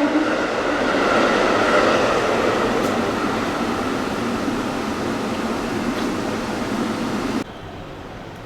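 A JR West train passing through a station at speed, its horn just ending as a steady rushing noise of wheels and air begins and slowly fades. The sound cuts off abruptly near the end.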